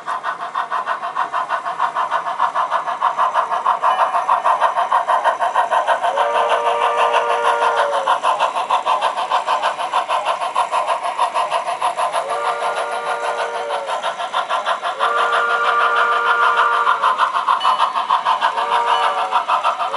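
Sound-equipped HO scale model steam locomotive running with a fast, steady exhaust chuff, its chime steam whistle blown several times: long blasts about six, twelve and fifteen seconds in, a short one near the end, then another long one starting.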